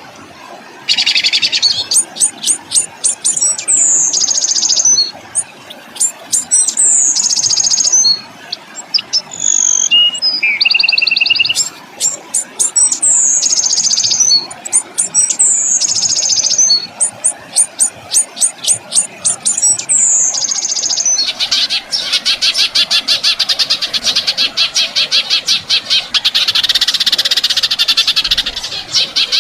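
A songbird singing a masteran training track: repeated phrases of fast, harsh clicking notes, each ending in a high falling note, the 'tembakan' (shot) style. About two-thirds in it changes to a continuous fast rattling trill, the 'ngerol' (rolling) style.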